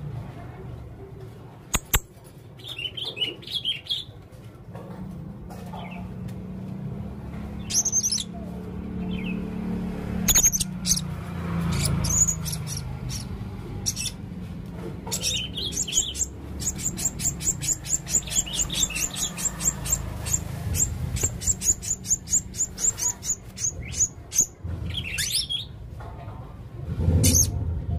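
Male blue-crowned hanging parrot (serindit) calling: high, thin chirps and twitters, with a long rapid run of sharp chirps at about four a second through the latter half. A steady low hum runs underneath.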